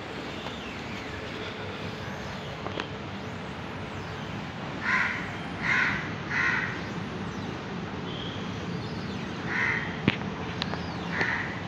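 A bird calling: three short calls in quick succession about five seconds in, then two more near the end. A sharp click comes about ten seconds in, over a steady background noise.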